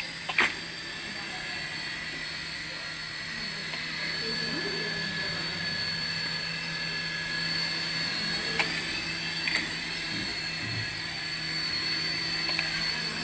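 Toy aircraft whining steadily at a high pitch, like a small electric motor, with a few short sharp clicks.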